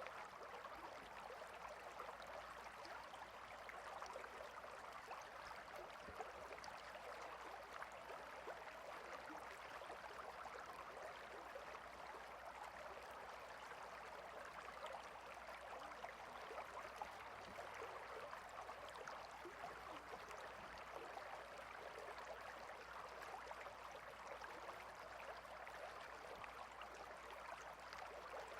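Water stream running steadily, a soft even babbling rush.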